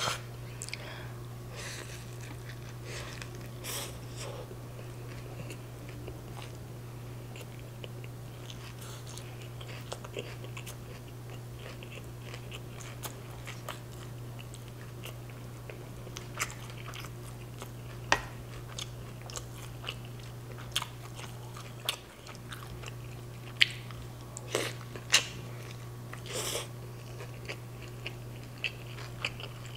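Close-miked chewing and biting of a carne asada street taco eaten by hand, with wet mouth clicks and smacks scattered through it, several sharp ones in the second half, over a steady low hum.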